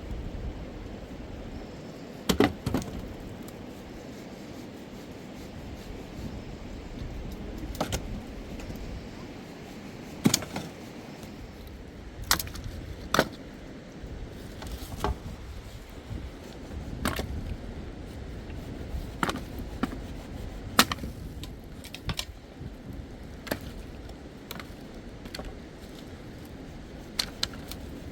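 About a dozen sharp knocks and clinks at irregular intervals, a few seconds apart, over a steady low rumble.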